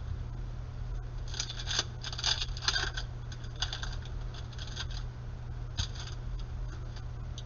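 Basketball trading cards being flipped through by hand: card stock sliding and scraping against itself in short rasping bursts, most of them in the first half, with one more about six seconds in.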